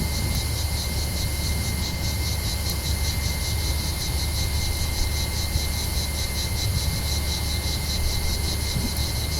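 Cicadas singing in a steady, fast-pulsing chorus of about six pulses a second, over a constant low rumble.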